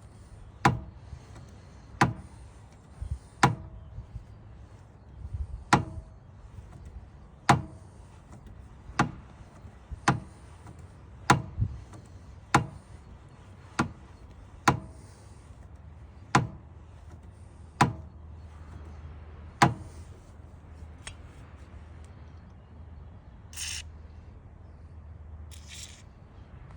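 About fourteen sharp metallic knocks, one every second or so, each with a brief ring, stopping about two-thirds of the way through. Two short hisses follow near the end.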